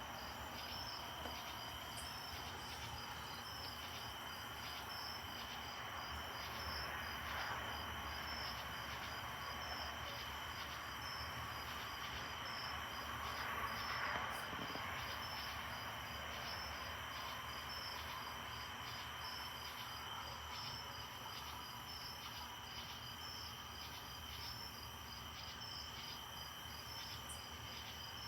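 Crickets chirping steadily: a continuous high trill with a regular pulsed chirp repeating over it.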